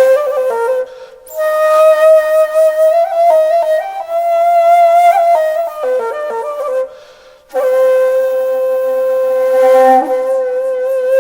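Background music: a solo flute-like wind instrument playing long held notes with small ornaments, pausing briefly twice as if for breath.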